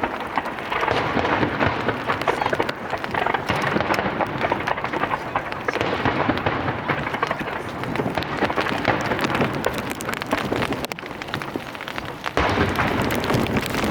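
Starmine fireworks barrage: a continuous run of rapid bursts and crackling that comes at once and merges into a dense rumble, growing suddenly louder about 12 seconds in.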